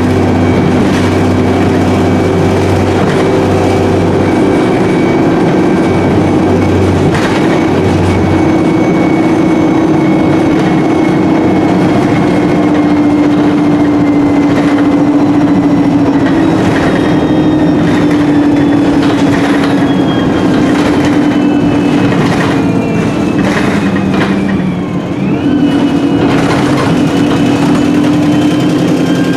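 Inside a moving ADL Enviro300 single-deck bus: the diesel engine and Voith 4-speed automatic gearbox whine steadily, the pitch drifting slowly down as the bus runs along. About 25 s in the sound dips briefly and a whine sweeps back up. The bus is known for a blown exhaust.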